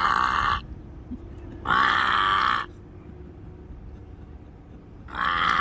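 A man calling out to a vulture in rough, wordless grunting calls, three times, each about a second long, at the start, about two seconds in and near the end.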